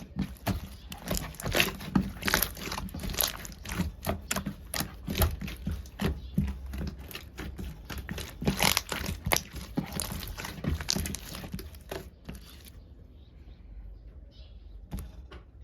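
Slime being squeezed and worked by hand, giving a fast, irregular run of sticky clicks and crackles. It stops about 13 seconds in, leaving only a faint rustle and one more click.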